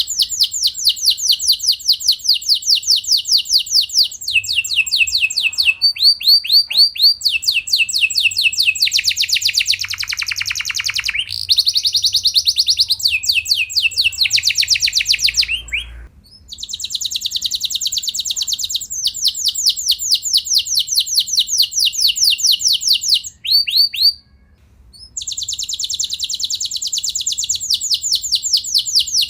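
Domestic canary singing long rolling trills: fast strings of repeated downsweeping notes that change speed and pitch from section to section, with short breaks about 16 and 24 seconds in.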